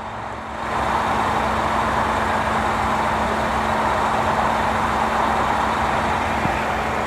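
Ford F-150 pickup idling, heard from inside the cab as a steady low hum, with a steady rushing noise that comes up about a second in and holds level.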